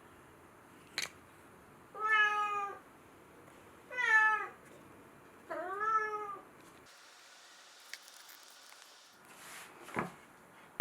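Domestic cat meowing three times, each call rising then falling in pitch, the last one the longest. A short click comes about a second in and a knock near the end.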